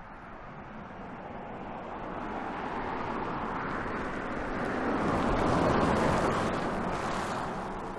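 A car driving past: tyre and road noise that grows louder, peaks about six seconds in, then fades.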